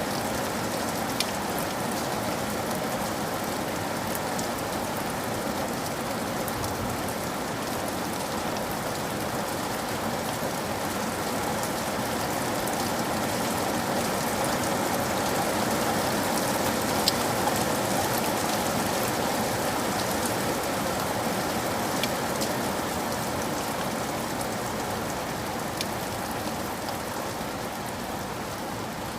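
Steady rain falling on a roof, with a few sharper single taps standing out here and there.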